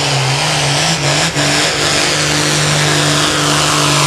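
Pulling tractor's engine running hard at high, nearly steady revs under load.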